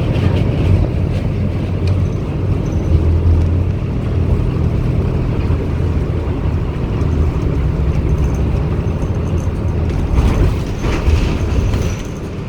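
Cummins ISB Euro 6 diesel engine of a 2016 Daewoo BS090 city bus running with a steady low drone. About ten seconds in there is a brief rise in noise, and the loudness eases slightly near the end.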